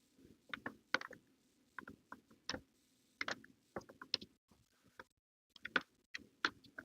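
Irregular light clicks and knocks of hard plastic as a Ryobi stick vacuum's transfer pipe is twisted and worked loose from the housing.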